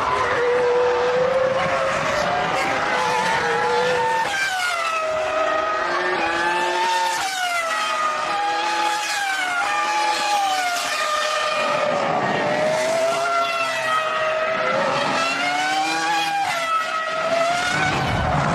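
Formula One cars' 3.0-litre V10 engines at racing speed, their pitch repeatedly rising under acceleration and dropping sharply at gear changes and braking, with more than one engine note overlapping.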